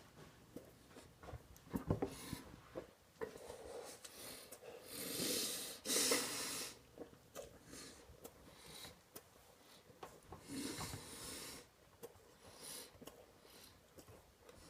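A man eating a burger fast: small wet chewing clicks broken by several heavy, noisy breaths through the nose.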